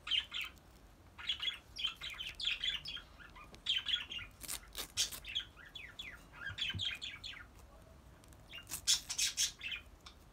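Birds chirping repeatedly in the background in quick groups of short, downward-sliding calls. A few short crackles, about halfway through and again near the end, come from the card packet being handled and opened.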